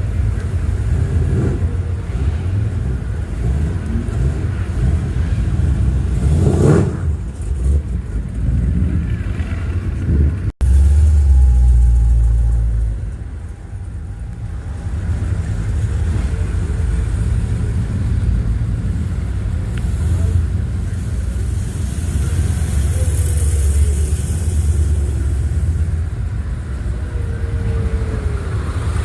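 Car engines rumbling and revving among passing hot rods and muscle cars, with a steady low rumble throughout. The sound cuts out abruptly about ten seconds in, then comes back with a louder, deeper rumble for a couple of seconds.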